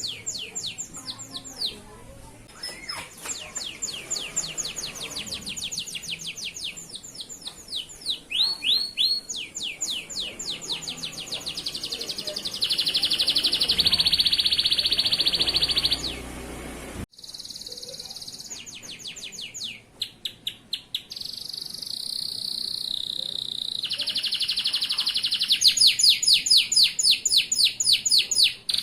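Male canary singing vigorously: runs of fast repeated chirps alternating with long, steady rolled trills, broken off sharply about two-thirds of the way through before the song resumes.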